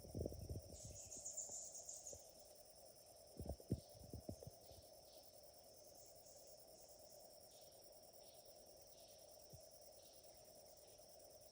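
Rainforest insect chorus: a steady high-pitched buzz over a lower steady drone, with faint short chirps above. A few low knocks come in the first half second and again about four seconds in.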